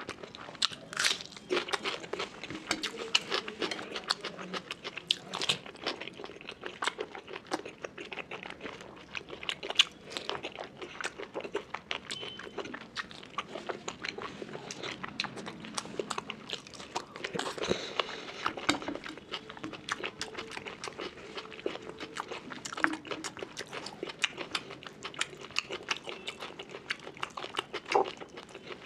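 Close-miked eating by hand: a person chewing mouthfuls of rice with pork curry and fish curry, a dense run of wet smacking and crunching bites. Fingers mix rice on a steel plate near the end.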